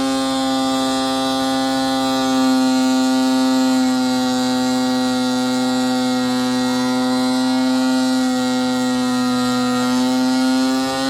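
Car engine held steadily at high revs: one sustained, high-pitched buzzing note that barely changes pitch, dipping slightly near the end.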